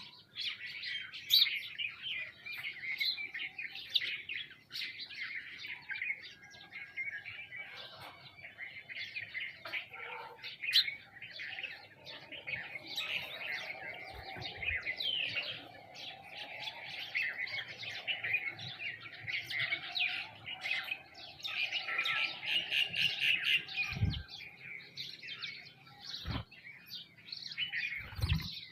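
A feeding flock of sparrows and mynas chirping continuously, many calls overlapping into a dense chatter. There are a few brief soft thumps near the end.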